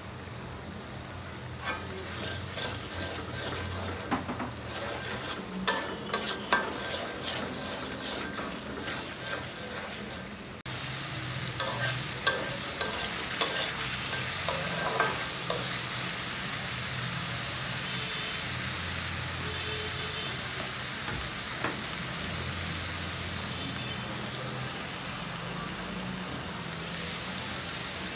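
Spice paste sizzling as it fries in a metal karahi, with a metal spatula scraping and clicking against the pan as it is stirred. The sizzle jumps louder suddenly about ten seconds in, and the clicks thin out to a steady frying hiss for the second half.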